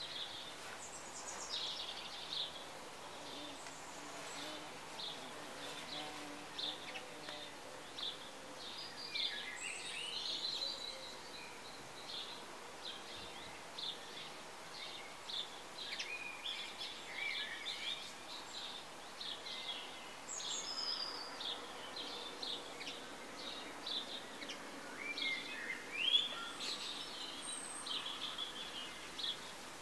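Background birdsong: many short, high chirps and a few sliding whistled phrases over a steady outdoor hiss, with a louder rising call near the end.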